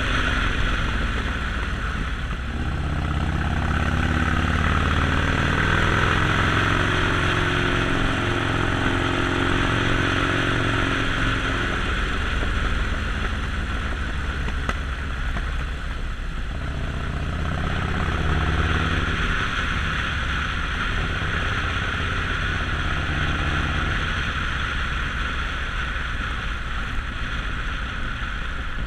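Harley-Davidson Sportster Forty-Eight's air-cooled V-twin running on the move, its note rising and falling with the throttle twice, over a steady rush of riding noise.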